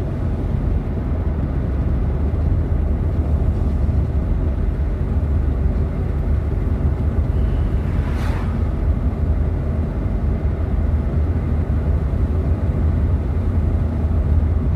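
Steady low road and engine rumble inside a moving car's cabin, with a brief hiss about eight seconds in.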